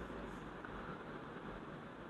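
A pause in speech: faint, steady background hiss of room tone.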